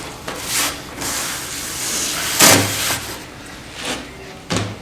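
A rag wiping oil around the inside edges and corners of a casting pan, a rough rubbing and scraping, with a sharp knock about halfway through and a smaller one near the end.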